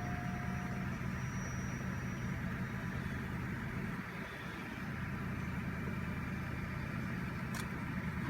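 Cadillac Northstar 4.6-litre V8 idling steadily just after a start on a not-quite-cold engine, with a light whine that fades out about a second in. A single brief click near the end.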